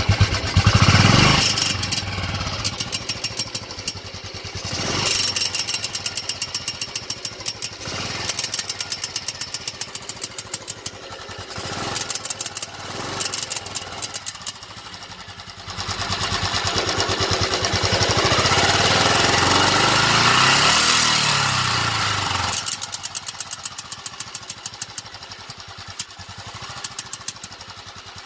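Royal Enfield Bullet 500's single-cylinder four-stroke engine idling with a regular thumping beat, blipped up several times, with one longer rev near the middle that rises and then falls. The owner hears a misfire-like, tinny noise from it at low revs when warm and does not know its cause.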